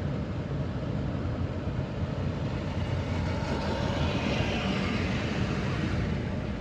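A vehicle driving: a steady engine hum with road and tyre rushing noise, swelling slightly around four seconds in.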